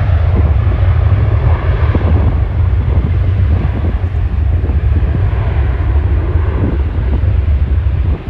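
Boeing 737-800's jet engines running at takeoff power, a steady rushing roar mixed with heavy wind buffeting on the microphone.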